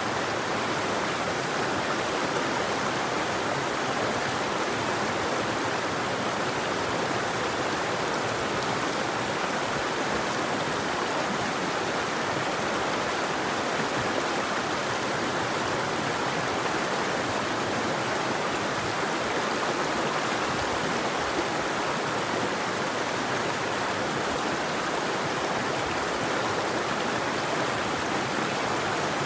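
River water flowing and rushing steadily, an even continuous babble with no birds.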